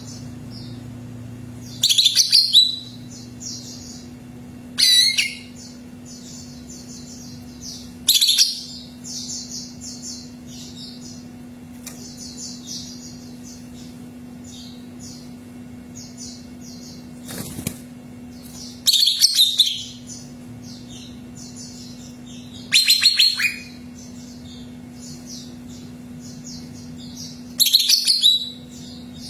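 Greater green leafbird (cucak ijo) singing: loud, fast chirping phrases burst out about every three to five seconds, with softer twittering in between. A steady low hum runs underneath.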